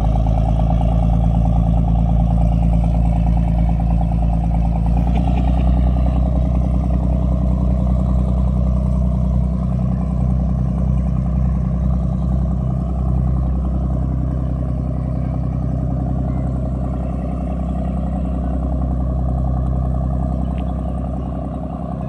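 A boat's engine running steadily at a constant pace, easing slightly in loudness over the second half.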